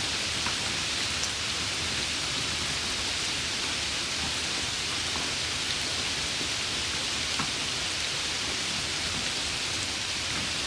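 Steady summer rain falling in an even hiss, with a few separate drops ticking now and then.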